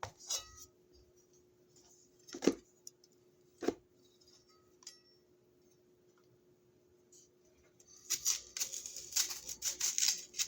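Kitchen handling sounds: two sharp knocks a second or so apart, then a couple of seconds of rustling and clattering near the end, over a faint steady hum.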